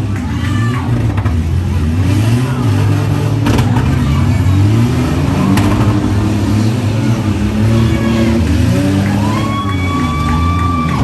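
Several demolition derby van and truck engines revving up and down together, with two sharp knocks of impacts. A steady high tone is held for about a second and a half near the end.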